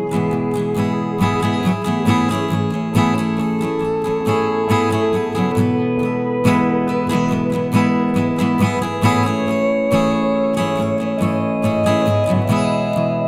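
Background music: acoustic guitar plucked and strummed at a steady pace.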